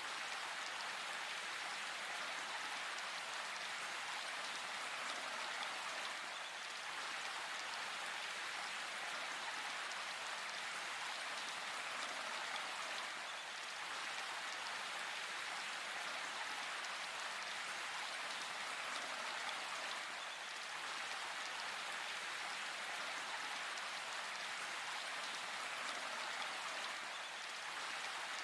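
Steady rain falling in a forest, an even hiss of drops on leaves and ground, with a slight dip in level about every seven seconds.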